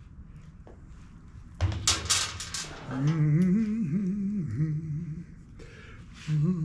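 A man humming a wandering low tune to himself, in two phrases. Before it, about a second and a half in, comes a short burst of clattering from handling hardware.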